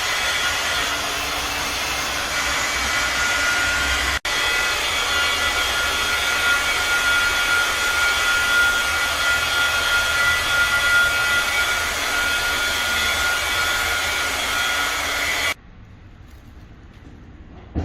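A handheld electric tool's motor running steadily with a whirring hiss and a high whine. It cuts off suddenly about fifteen seconds in.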